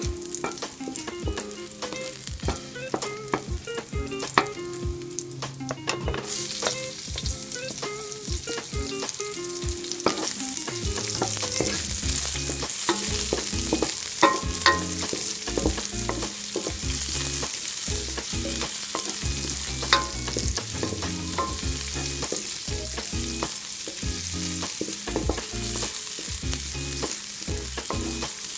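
Food frying in a hot pan, sizzling, while a utensil clicks and scrapes against the pan as it is stirred. The sizzle gets suddenly louder about six seconds in.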